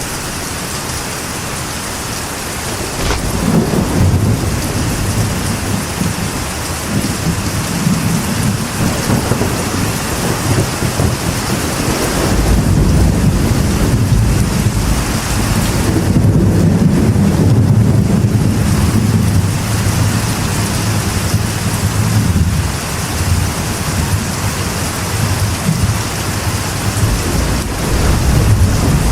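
Steady rain drumming on a metal roof, with thunder rumbling low and swelling several times, loudest in the middle stretch.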